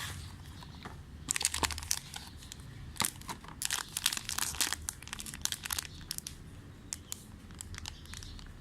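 Plastic food packaging of a self-heating instant noodle kit crinkling and crackling as it is handled. Bursts of crinkling come in clusters from about a second in, then thin out to occasional quieter crackles near the end.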